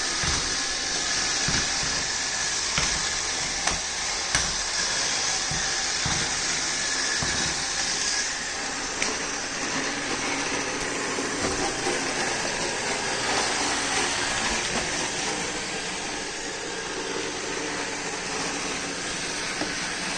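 iRobot Roomba 614 robot vacuum running a cleaning pass: a steady, hissing whir of its motor and brushes, with occasional low knocks.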